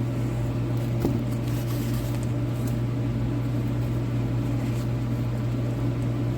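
Steady hum and blowing of an overhead space heater running, with a faint tick or two of box handling about a second in.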